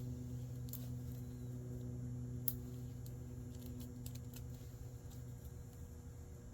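Sparse small clicks and scrapes of a knife working the insulation off copper wire, over a steady low hum.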